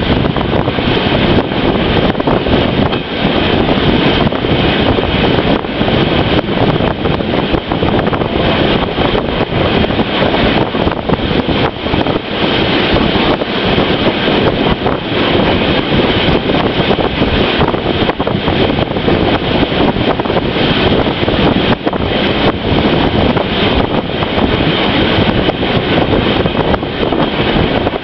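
Steady rumble and rush of a moving train, with wind blowing on the microphone.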